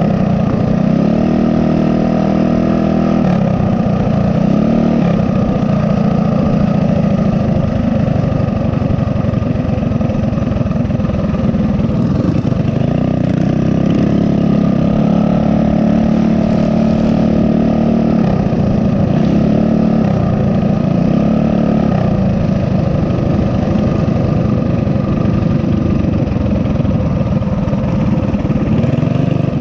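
Mini bike's small single-cylinder four-stroke engine running while riding, its pitch rising and falling again and again as the throttle is opened and eased off.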